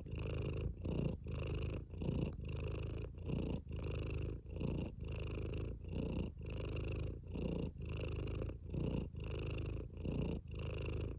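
Domestic cat purring close up, a steady rumble broken by short pauses about twice a second as it breathes in and out.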